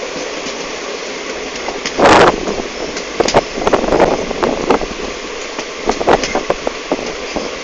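Train in motion heard from an open carriage window: a steady rush of running noise and wind, broken by irregular sharp clacks. A loud burst of noise comes about two seconds in.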